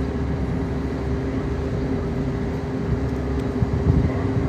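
Steady low rumble and constant hum of an idling vehicle engine.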